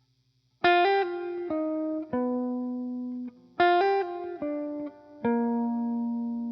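Background music: a solo guitar picking a slow phrase of single notes that ring out and fade, the phrase played twice.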